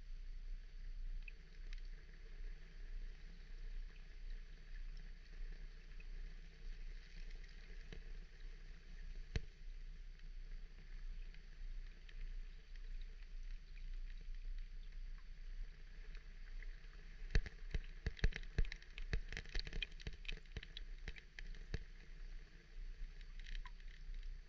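Soft, steady water ambience with a low hum underneath, and a quick run of small clicks and ticks about two-thirds of the way through.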